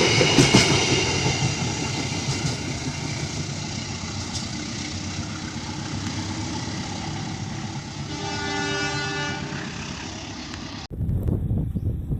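Diesel-hauled passenger train passing and rolling away, its rail noise fading. About 8 s in, a locomotive horn sounds once for about a second and a half. Near the end the sound cuts abruptly to a low rumbling noise.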